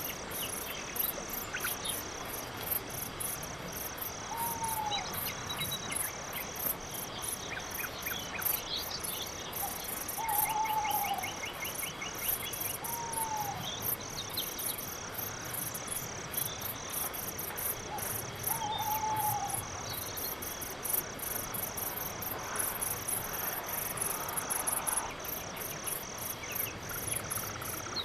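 Crickets chirping in a steady, fast pulse through a night-forest ambience, with four short, falling calls from another animal scattered through it.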